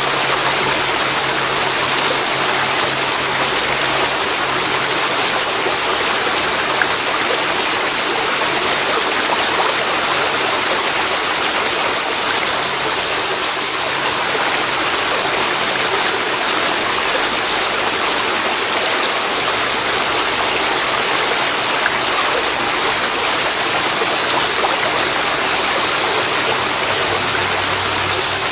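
Waterfall pouring into a river: a loud, steady rush of falling and flowing water.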